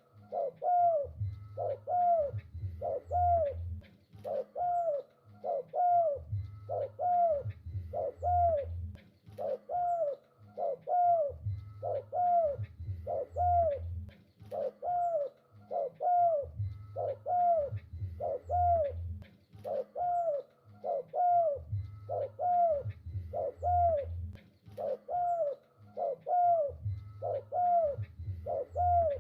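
Spotted dove (tekukur) cooing on and on, short repeated coos about two a second, with a deeper, lower part coming back in phrases every three to four seconds.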